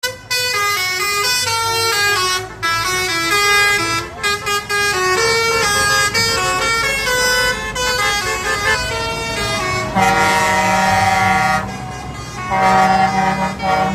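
Vehicle horns sounding over and over at shifting pitches, then a long multi-note air-horn blast about ten seconds in and another near the end, with engine noise underneath.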